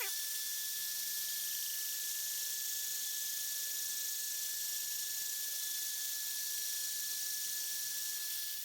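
Electric drill running at low speed with a diamond-tipped arbour cutter grinding through a milk glass bulb: a steady motor whine over a high, gritty hiss as the cutter nears breaking through the glass.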